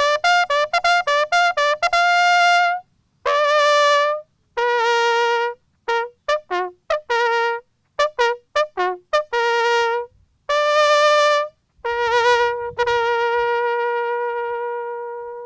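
Solo brass horn playing a bugle call, the ceremonial call sounded after a wreath is laid. It plays quick runs and held notes on a few natural bugle pitches, and ends on one long sustained note.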